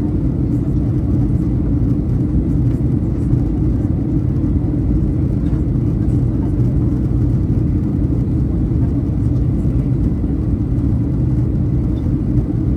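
Steady low rumble of a Boeing 737-800 heard from inside the cabin, its engines running and the airframe rolling as the jet taxis after landing.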